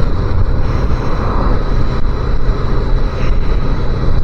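A 250cc motorbike riding along at a steady pace: the engine running under a heavy, steady rumble of wind on the microphone.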